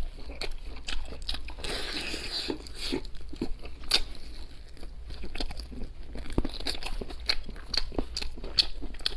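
A person chewing and crunching charcoal-roasted chicken close to the microphone, with many short, irregular crunches and mouth clicks.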